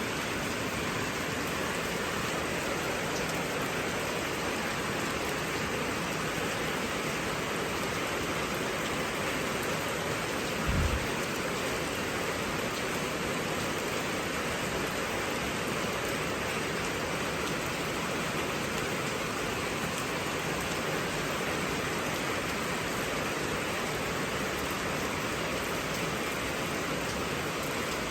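Heavy rain falling steadily in an even hiss, with a single low thump about eleven seconds in.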